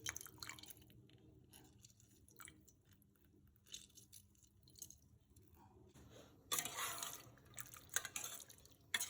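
Half a lemon squeezed by hand over the rice in the cooking pot, with faint squishing and dripping. Louder scraping and rustling comes in the last few seconds.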